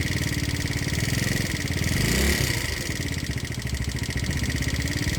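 Motorbike engine idling with a steady pulse, revving up briefly about two seconds in and settling back.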